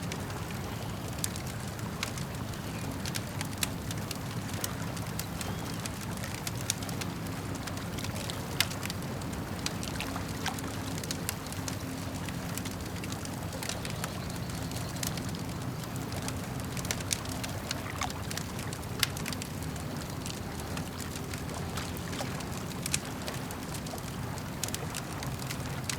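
Campfire crackling, with irregular sharp pops and snaps of burning wood, over a steady low wash of lake water lapping.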